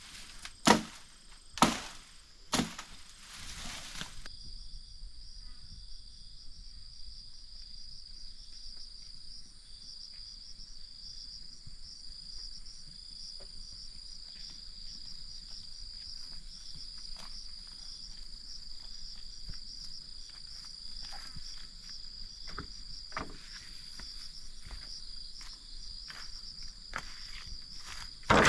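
Three sharp chopping strikes on wood in the first three seconds. Then a steady, high, finely pulsing insect chorus, with a few faint knocks scattered through it.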